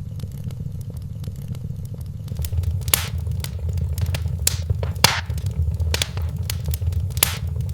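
Wood fire in a fireplace crackling, with irregular sharp pops over a steady low rumble of the flames; the pops get louder and more frequent a couple of seconds in.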